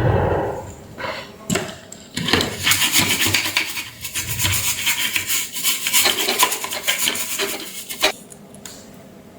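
Hand scraping or rubbing on a hard surface: a knock at the start, then a fast, busy run of scraping strokes for about six seconds, ending in a sharp click.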